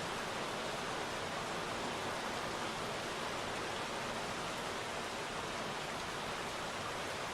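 Steady rain falling into puddles: an even hiss of many drops, with no single drop standing out.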